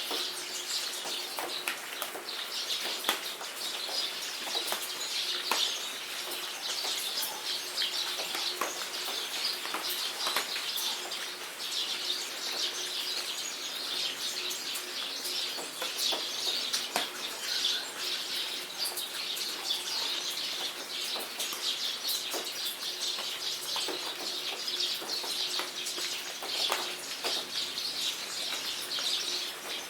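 Steady rain falling, with many sharp individual drop strikes, while birds chirp and call continuously.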